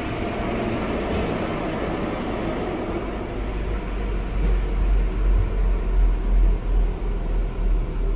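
Sonny's car wash tunnel dryers blowing on the car: a steady rush of air, joined about halfway through by a heavy, uneven low buffeting.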